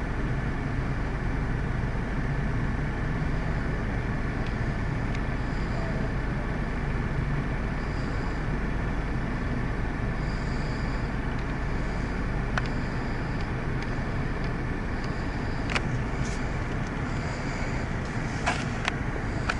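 Vehicle engine idling with a steady low rumble under background traffic noise, with a few short sharp clicks near the end.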